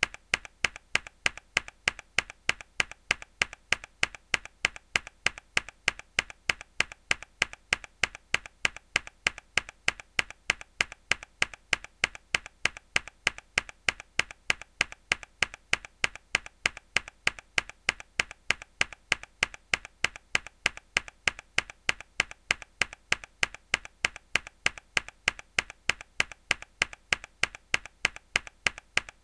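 A mechanical keyboard key struck hard again and again at a steady, rapid, even pace, each press a sharp click.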